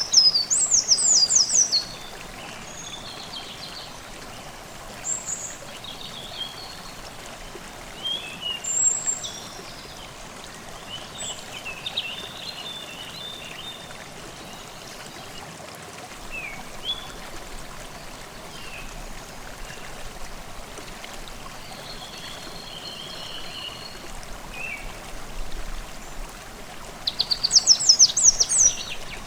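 Forest stream babbling steadily, with songbirds singing over it: a loud fast trill of rapid high notes in the first two seconds and again near the end, and softer chirps and warbles between.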